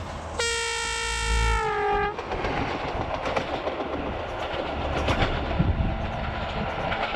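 A small Italian-built railcar sounds its horn once for about a second and a half, the note sagging slightly as it ends. Then come the rumble and wheel clicks of the train running along the track.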